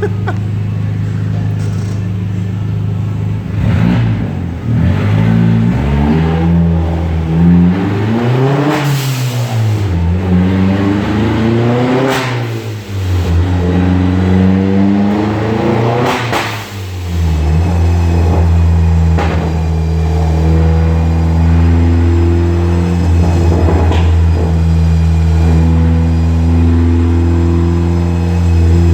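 2007 Opel Astra 2.0 turbo Ecotec engine on a chassis dynamometer. It starts at a steady note, then revs climb and drop three times, with a short rush of noise at each peak. After that it runs steadily at a constant speed.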